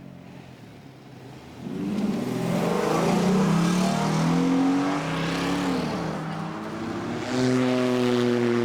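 A car engine accelerating hard, its exhaust note rising in pitch and then easing off; from about seven seconds in, a loud engine note holds steady at one pitch.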